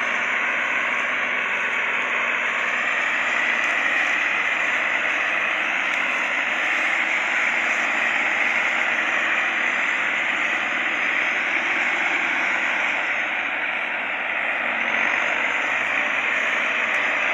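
Fiat tractor engines running steadily under load as they pull a heavy load: an even, harsh, noisy drone with no clear beat.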